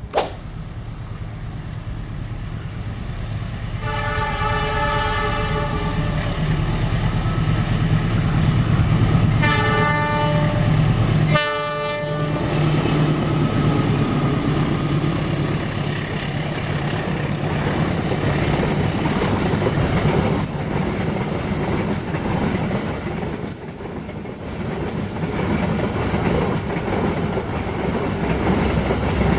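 Indonesian diesel locomotive hauling a passenger train: one long horn blast about four seconds in, then two short blasts around ten and eleven and a half seconds, over a steady engine drone. The carriages then rumble past with wheels clacking over the rail joints. A brief sharp knock at the very start.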